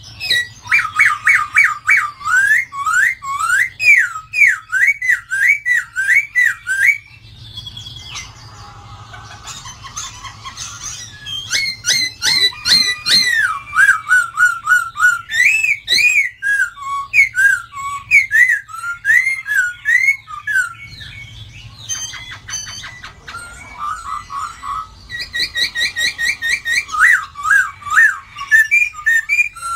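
Poksay Hongkong laughingthrush singing in loud, rapid runs of rising and falling whistled notes, phrase after phrase, with a quieter, more broken stretch about a third of the way in and another past two-thirds.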